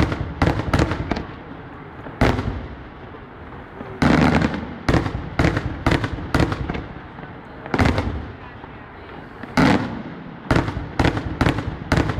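Fireworks exploding: a string of sharp bangs at irregular intervals, some coming in quick clusters of three or four, each followed by a short echoing tail.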